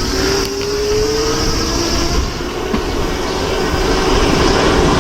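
Wind rushing over the microphone of a moving electric bike, growing louder, with a faint motor whine that slowly rises in pitch as the bike gains speed.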